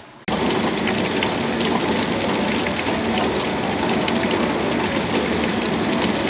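Heavy downpour: rain pouring onto concrete paving, a dense steady hiss with fine drop ticks that cuts in abruptly just after the start.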